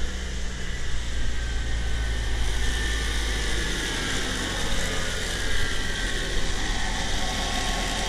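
1997 Saturn SL2's 1.9-litre DOHC four-cylinder engine idling steadily under the open hood. The radiator cooling fan stays off even with the coolant temperature sensor unplugged, which should force it on.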